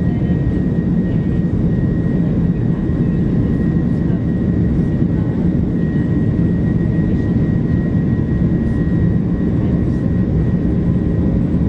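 Airbus A330 jet engines heard from inside the passenger cabin during departure: a loud, steady low rumble with a thin, steady high whine over it.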